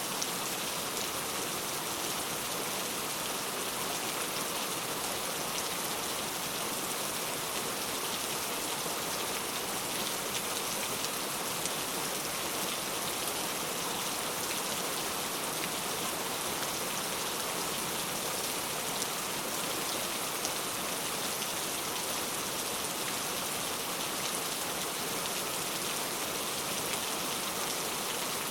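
Steady rain falling, an even hiss of many drops with fine ticks of individual drops hitting a surface.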